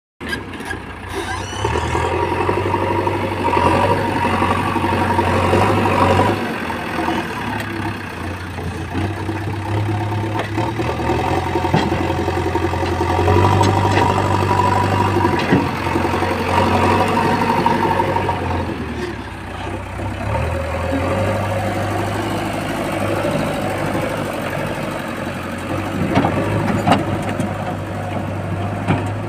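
Diesel engine of a JCB 3DX backhoe loader working, repeatedly rising in speed under load and dropping back, with a few sharp knocks near the end.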